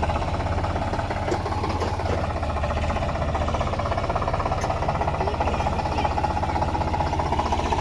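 Tractor's diesel engine running steadily with a rapid, even chugging.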